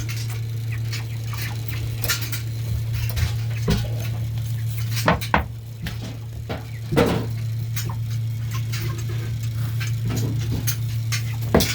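Scattered sharp taps and clinks of feeders and waterers in a pen of five-week-old broiler chickens, over a steady low hum.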